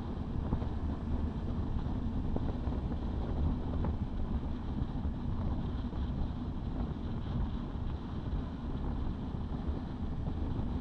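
Honda CB650R's inline-four engine with an Ixil aftermarket exhaust running at a steady pace under way, mixed with wind rushing over the microphone.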